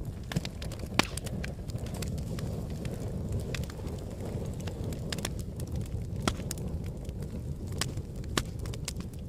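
Wood fire burning in a fireplace: a steady low rumble of flames with irregular sharp crackles and pops, the loudest pop about a second in.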